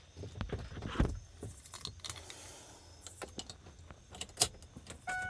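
Small metallic clinks and rattles with a few sharp knocks, the sound of keys or small parts being handled. Near the end a steady electronic tone comes on.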